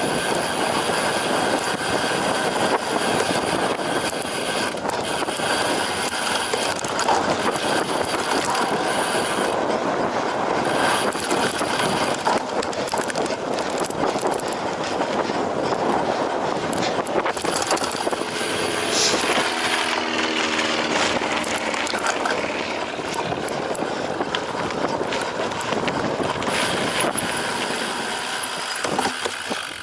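Cyclocross bike being raced over rough ground: a steady clatter and rattle of the bike's frame and drivetrain, with tyre noise.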